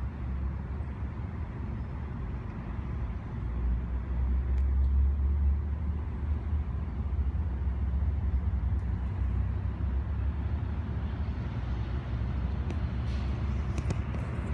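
Commuter train rolling in on the track and starting to pass close by: a steady low rumble of wheels on rail that swells about four seconds in and stays strong. A few sharp clicks come near the end as the cab car goes past.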